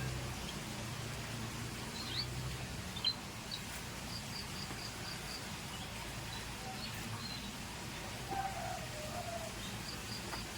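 Scotch Fancy canary giving sparse short chirps and call notes, including twice a quick run of about five high ticks, over a steady low background noise.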